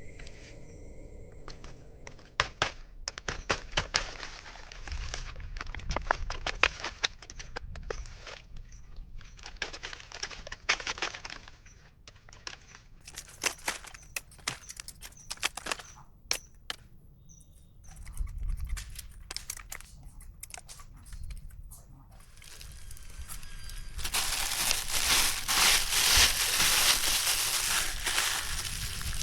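Dry plant material being handled: irregular crinkling and crackling with many sharp snaps, then a denser, louder rustle for the last few seconds.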